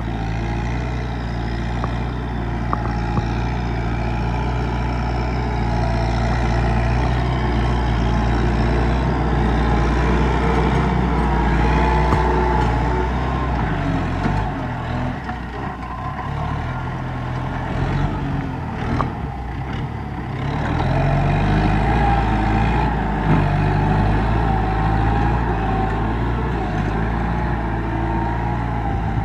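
Kubota M7040 tractor's diesel engine running steadily while ploughing a rice field. Its note sags for several seconds around the middle, then recovers.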